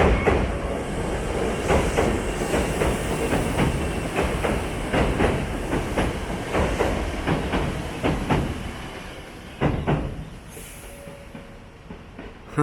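Train passing, its wheels clacking over rail joints in a quick uneven series. It is loud at first and fades away over the last few seconds.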